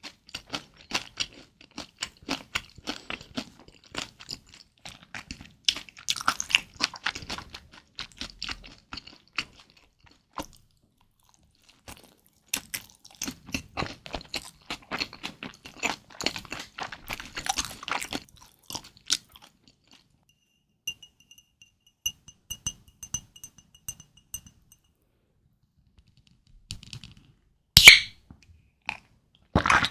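Close-miked chewing of kimchi dumplings, moist and crunchy, in two bouts with a short pause between them. A faint high pulsing tone follows, and a single loud sharp sound comes near the end.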